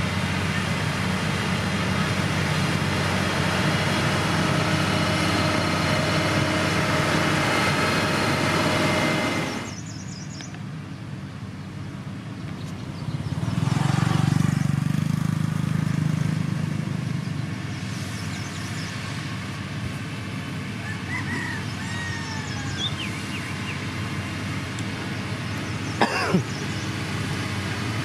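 Diesel engine of heavy road-building machinery running steadily. It drops off abruptly about a third of the way through, swells again in the middle, then runs quieter, with a short sharp knock near the end.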